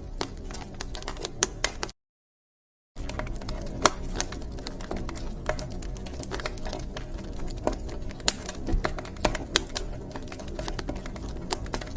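Wood fire crackling in a fireplace: irregular sharp pops and snaps over a low steady rumble of burning. About two seconds in, the sound cuts out completely for about a second, then the crackling resumes.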